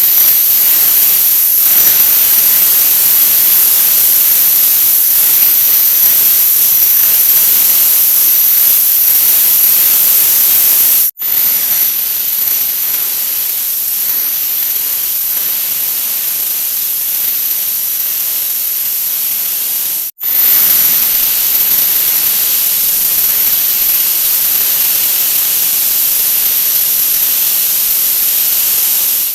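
A 'wah wah' sound effect sped up so far that it has become a steady, dense hiss, strongest in the highest register. It cuts out for an instant twice, about 11 and 20 seconds in, where one sped-up repeat gives way to the next.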